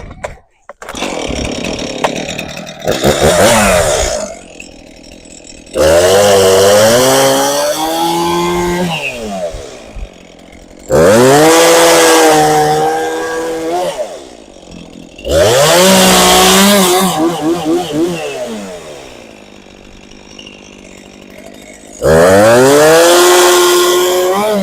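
Chainsaw cutting up a felled tree: the saw revs up to full throttle for each cut, its pitch climbing and then sagging. It drops back to idle between cuts, about five times.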